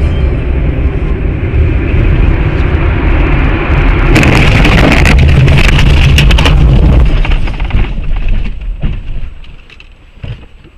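Loud vehicle noise: a heavy low rumble of a car on the road, with a harsh stretch of noise and sharp knocks from about four seconds in that lasts a few seconds, after which the sound drops away.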